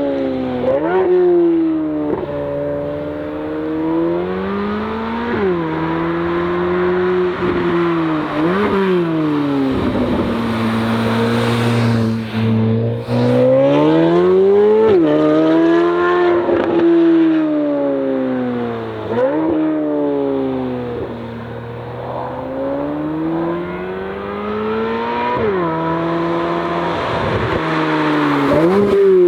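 C8 Corvette Z06's flat-plane-crank V8 with an AWE exhaust, accelerating hard through the gears on track. Its pitch climbs and then drops sharply at each upshift, and it falls away and builds again as the car lifts off and gets back on the throttle, several times over.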